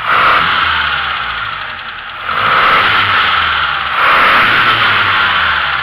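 Datsun 1200's A12 four-cylinder engine, with an open pod air filter and Trophy exhaust, being revved in three blips of the throttle: at the start, about two seconds in and about four seconds in. The revs fall back slowly after each one.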